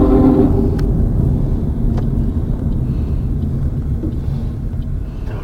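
Low, steady rumble of a moving vehicle that slowly fades, with a pitched tone at the start that dies away within about a second.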